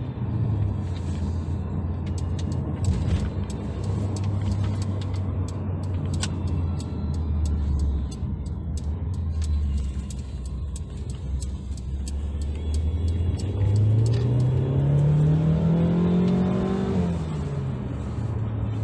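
Mercedes-Benz GLA 200's turbocharged four-cylinder engine heard from inside the cabin, humming steadily at low speed while driving. About 13 seconds in, the revs rise under acceleration for several seconds, then fall away sharply near the end, as the transmission shifts up.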